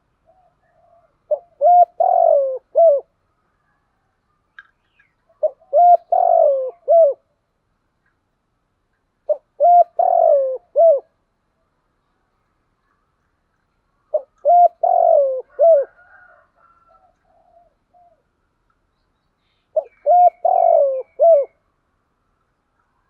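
Spotted dove cooing: five short phrases of several coos each, about four seconds apart, with faint chirps from another bird between them.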